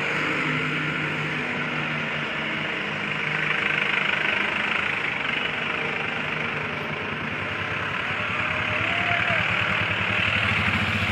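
Vehicle engine idling, with a steady hiss of roadside noise behind it.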